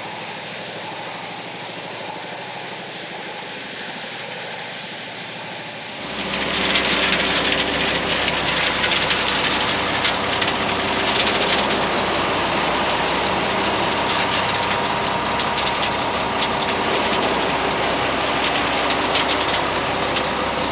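An engine running steadily with a rattling clatter over it, growing much louder about six seconds in.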